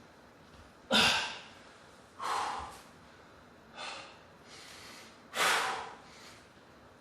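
A man breathing hard under exertion during a timed fitness test: four forceful huffs about a second and a half apart, the first and last the loudest.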